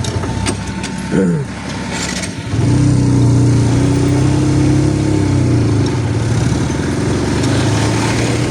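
Motorcycle engine running while being ridden on a rough road, with road and wind noise. Its pitch drops about a second in, with a few sharp knocks, then it pulls steadily and louder from about two and a half seconds in.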